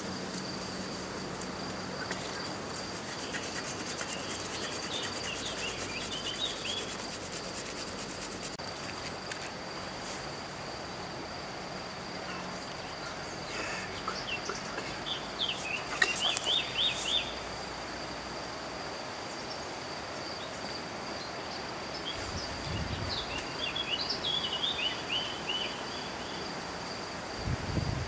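Outdoor ambience: a steady high-pitched whine over a noisy hiss, with short bursts of quick bird chirps three times, and a couple of dull low thumps near the end.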